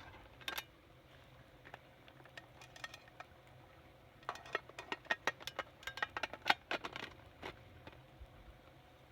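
Metal cookware and utensils clinking and rattling in a quick, irregular run of light clicks, densest from about four to seven seconds in.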